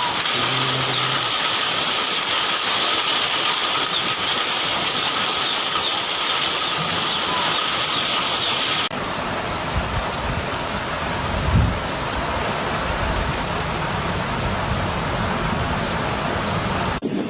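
Heavy rain and gale-force wind of a kalboishakhi (nor'wester) thunderstorm. First a dense, steady hiss of downpour; then, after a cut about halfway, lower gusting wind buffeting the microphone.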